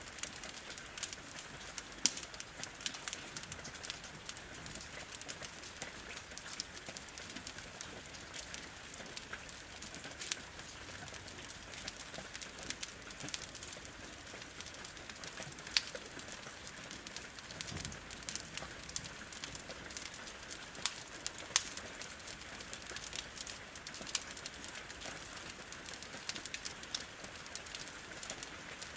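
Wood fire crackling with irregular sharp pops over a steady hiss of rain falling on a window.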